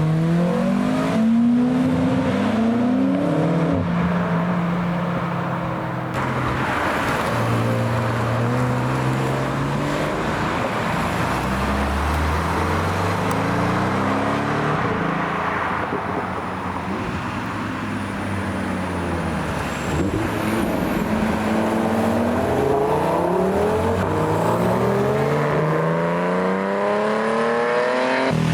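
Several sports cars accelerating away one after another. The engines rev up through the gears, each climb in pitch broken by a drop at the shift, with engines overlapping as cars pass.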